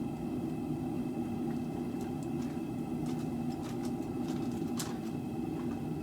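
Steady low roar of a running propane forge burner, with a few faint clicks about midway.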